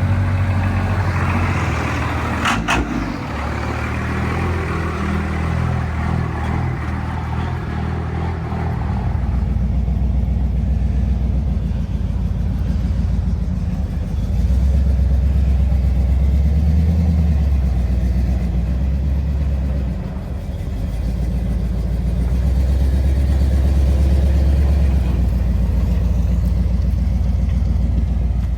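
A car's engine running as it drives, a low rumble that swells and eases with the throttle, with one sharp knock about two and a half seconds in.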